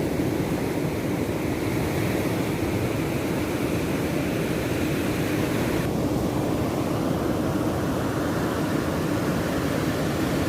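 Steady roar of ocean surf breaking on the beach, with no single wave standing out; the high hiss eases slightly about six seconds in.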